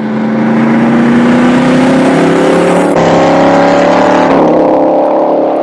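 A car engine pulling under acceleration, loud and steady, its pitch climbing slowly. The tone changes abruptly about three seconds in.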